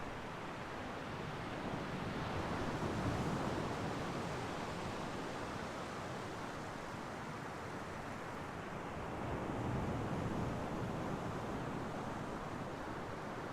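Ocean surf breaking on a shore: a steady wash of wave noise that swells twice, about three seconds in and again about ten seconds in.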